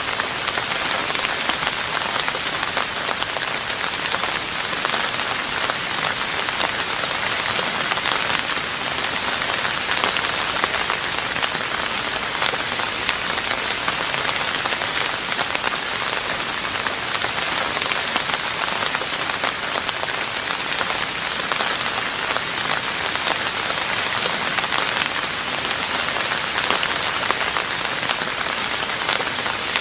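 Steady rain falling on a roof: a dense, even patter of countless drops that doesn't let up.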